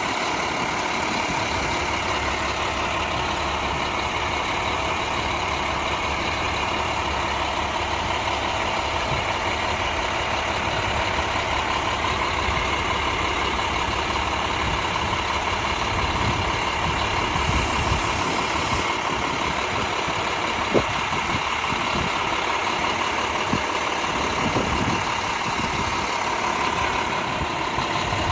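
Heavy truck engines, the fire apparatus at the scene, idling steadily, with a single short knock about 21 seconds in.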